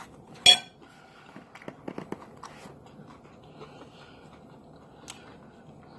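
Sounds of eating a meal: one sharp click about half a second in, then a few faint clicks.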